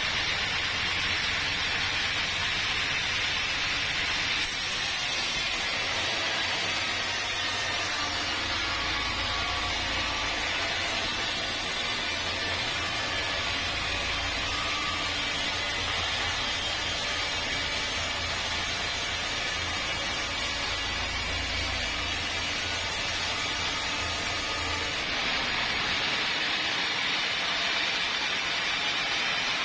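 Sawmill machinery running steadily: a dense, even hiss over a low hum, with no single strikes. The sound changes abruptly about four seconds in and again near the end.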